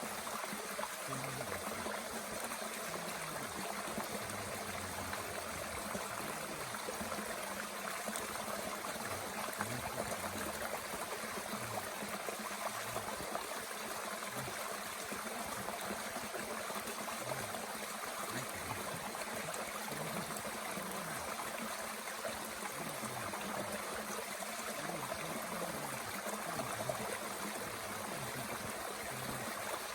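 Mountain stream flowing steadily, an even rushing of water.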